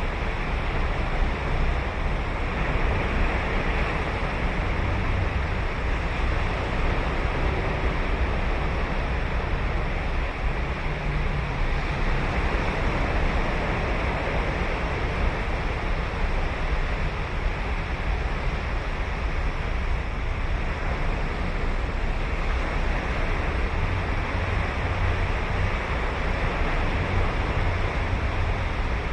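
Ocean surf breaking and washing onto a sandy beach, a continuous rushing with slow swells as waves come in, with some wind on the microphone.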